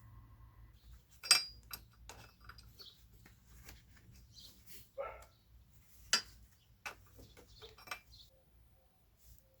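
Sharp metallic clinks and knocks of tools and scooter parts being handled, the two loudest about a second in and about six seconds in. A dog gives a short bark about five seconds in.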